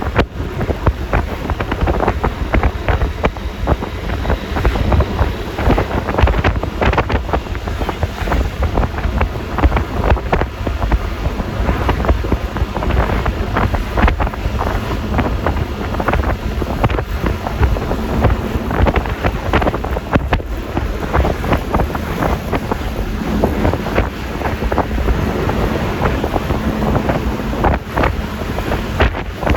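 Wind buffeting the microphone of a moving Yamaha Lexi LX 155 scooter, over a steady rush of road and engine noise, gusting unevenly throughout.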